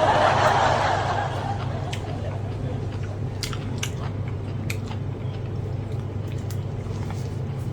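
A person chewing and biting food close to the microphone: a short burst of noise in the first second, then scattered wet mouth clicks, over a steady low hum.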